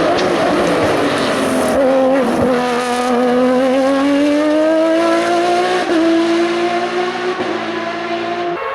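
Race car engine at high revs, accelerating hard, its pitch climbing steadily with brief breaks in the note about six and seven and a half seconds in.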